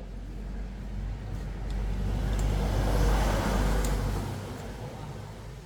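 A motor vehicle passing by: a rumble and road noise that swell to a peak about three seconds in, then fade away.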